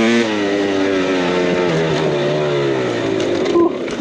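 KTM 300 two-stroke dirt bike engine running on the trail, its pitch easing slowly downward as the throttle comes off. About three and a half seconds in, the steady note breaks up into a few sharp knocks and clatter.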